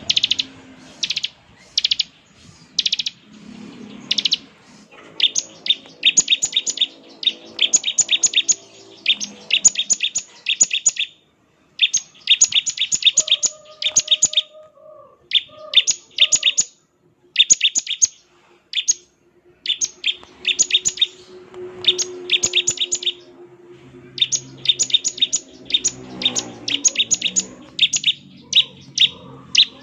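Bar-winged prinia (ciblek) giving its 'ngebren' call: a few separate high chirps at first, then from about five seconds in, repeated bursts of rapid rattling notes, each burst a second or two long with short gaps between.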